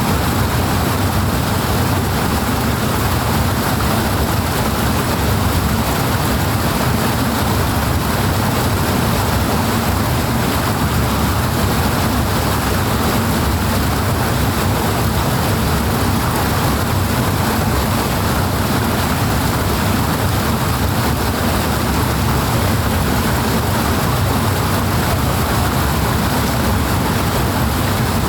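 Powerful, steady rush of flowing water, an unbroken full hiss with a strong low rumble underneath.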